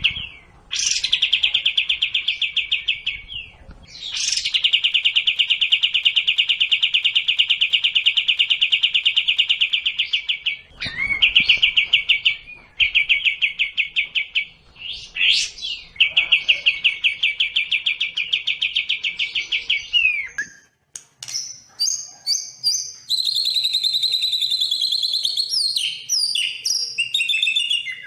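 Songbirds of a sekoci and white-rumped shama tutor recording singing: several long, fast trills of one repeated note, the longest running about six seconds. About two-thirds of the way through, these give way to a run of varied, higher chirps and whistles.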